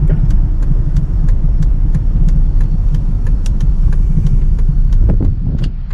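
Used Volvo car being driven slowly, a steady low rumble of engine and road noise with scattered sharp clicks throughout.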